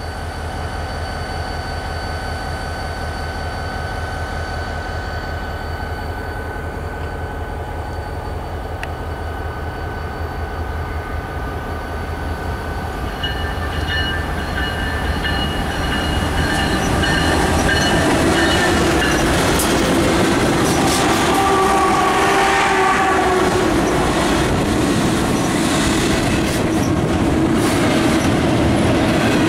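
A BNSF freight train headed by GE ES44DC diesel locomotives approaches and passes close by. The locomotives' diesel engines grow louder as they near and go by, with their pitch sliding as they pass. Then come the rumble and rapid wheel clatter of double-stack container cars rolling past.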